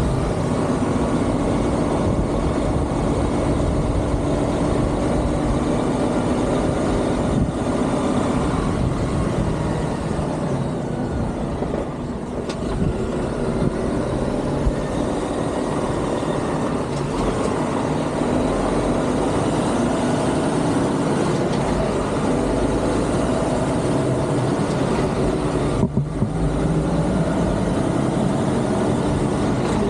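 Heavy truck's diesel engine running steadily at low speed, with a brief break about 26 seconds in.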